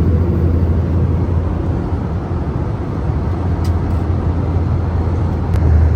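Airbus A321-200 cabin noise in cruise: a steady rumble of engines and airflow with a strong low drone. Two faint ticks come near the middle and near the end.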